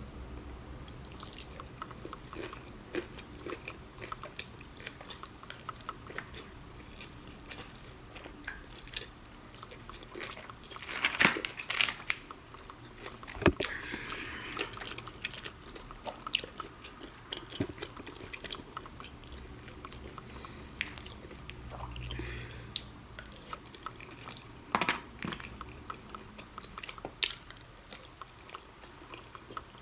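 Close-miked eating: a person chewing and biting food, with scattered small crunches and clicks, busiest about eleven to fourteen seconds in and again near twenty-five seconds.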